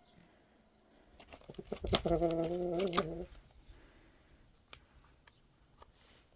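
A run of quick clicks, then a single animal call about a second long, held on one pitch, with a few faint ticks afterwards.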